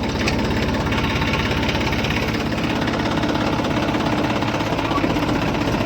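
Tractor diesel engine running at a steady idle, with an even, rapid beat.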